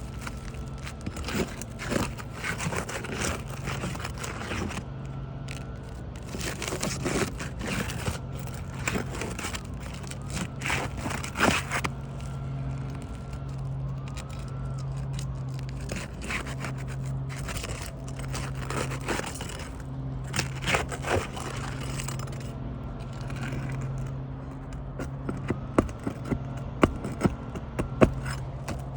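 Repeated scraping, clicks and knocks of hand repair work, over a steady low hum that drops out now and then. Several sharper knocks come near the end.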